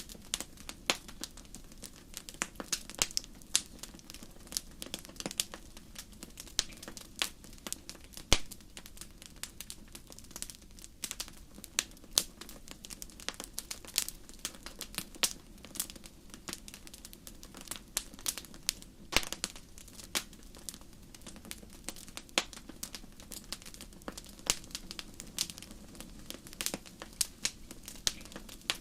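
Wood fire crackling in a fireplace: irregular sharp pops and snaps over a low, steady rush of the flames.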